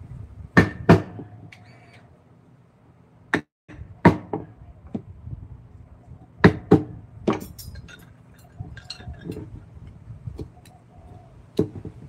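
Hand tools knocking and clinking against wood: irregular sharp taps, often two in quick succession, about nine in all, with a brief cut-out a little after three seconds in.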